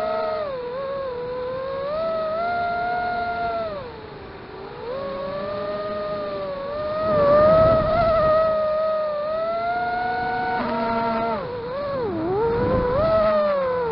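Vortex FPV racing quadcopter's brushless motors spinning 5-inch tri-blade props, a whine that rises and falls in pitch with the throttle. It eases off and goes quieter about four seconds in, and dips sharply in pitch about twelve seconds in.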